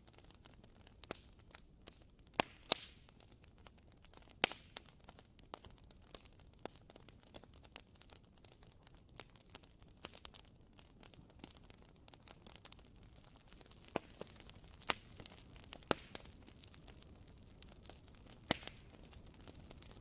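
Wood fire crackling: irregular sharp pops and snaps over a faint steady hiss, with a few louder pops scattered through.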